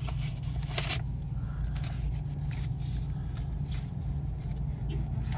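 Road and engine noise heard inside a moving car's cabin: a steady low rumble, with a few short ticks scattered through it.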